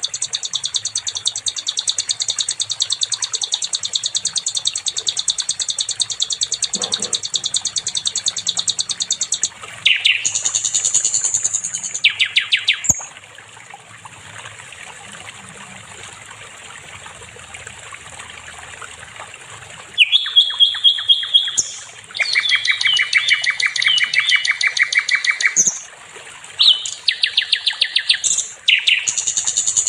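A sikatan londo (a flycatcher) singing: a long, very fast trill of high, piercing repeated notes for about ten seconds, then short trilled phrases, a pause of several seconds, and more varied rapid phrases near the end.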